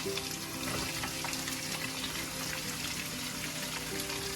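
Chopped onions frying in hot oil with whole spices: a steady sizzle with fine crackling.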